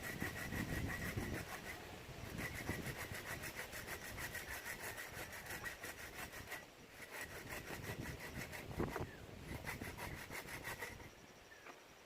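Hand saw cutting through wood in runs of quick, even back-and-forth strokes, broken by short pauses, stopping about eleven seconds in.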